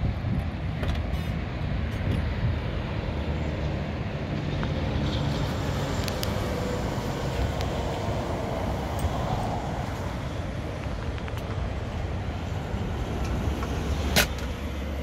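Steady low rumble of an idling engine, likely the 1970 Buick GS455's 455 V8, with a few light clicks and one sharp click about fourteen seconds in.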